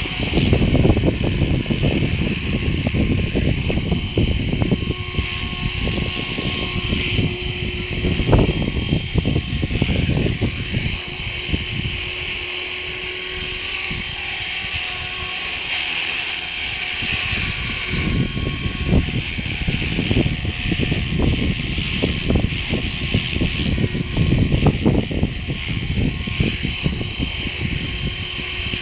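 E-Razor 450 RC helicopter hovering: a steady high whine from its motor and rotor, under heavy wind buffeting the microphone in repeated gusts.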